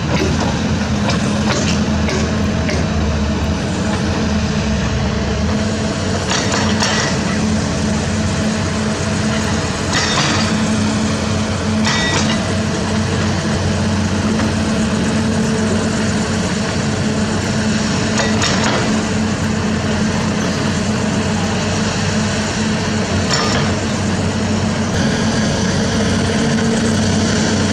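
Heavy diesel construction machinery running steadily under load, with sharp metallic clanks and knocks from the working equipment every few seconds.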